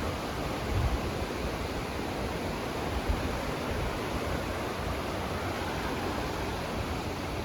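Steady rush of river water running over the rocks and falls of the dells.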